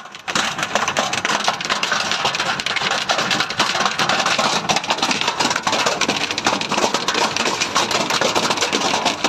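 Hailstones pelting a hard surface, a dense, rapid, loud clatter of many separate impacts that starts just after the beginning.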